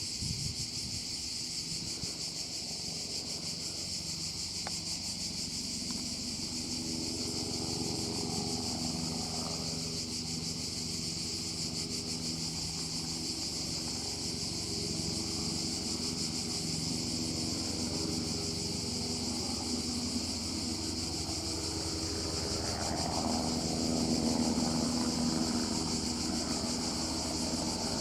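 Airbus AS350 helicopter flying at a distance, a steady pitched rotor and turbine hum that swells twice, about a third of the way in and again near the end. A steady high insect drone runs underneath.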